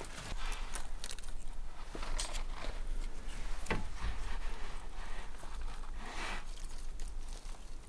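Irregular knocks, scrapes and rustles of someone moving about and handling things, over a faint low rumble.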